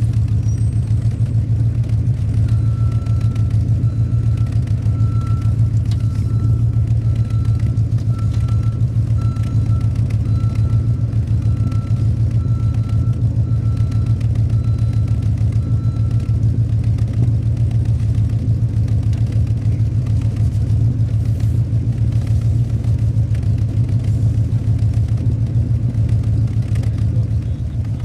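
1967 Cadillac Eldorado's 429 cubic-inch (7-litre) V8 idling steadily through its true dual exhaust, a low even rumble at the tailpipes.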